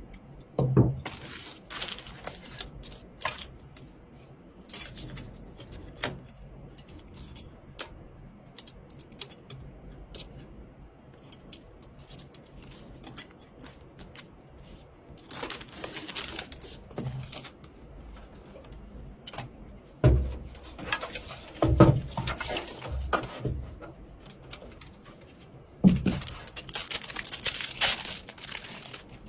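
Hands handling computer parts and packaging during PC assembly: scattered clicks and knocks, with a few louder knocks about two-thirds of the way through and rustling, tearing-like bursts, the longest near the end.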